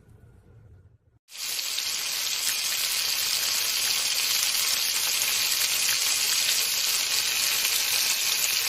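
A faint low hum, then about a second in a loud, steady hiss cuts in suddenly and holds, strongest in the high range, with no tone or rhythm.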